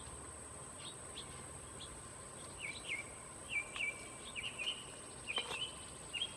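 Wild songbirds chirping in short, quick notes, growing busier from about two and a half seconds in. A single sharp click about five seconds in.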